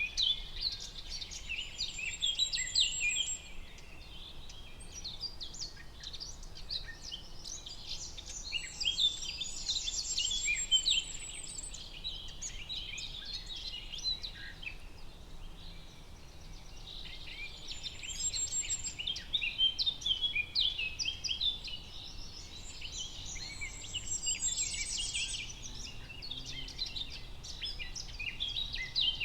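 Several birds singing and chirping at once in a forest, a dense overlapping chorus of quick high chirps and trills that swells and eases every few seconds, over a faint low hiss.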